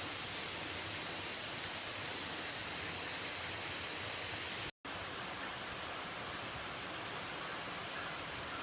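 Steady rushing noise, even and unbroken, with a thin high steady tone above it. The sound cuts out completely for a moment about halfway through, then goes on unchanged.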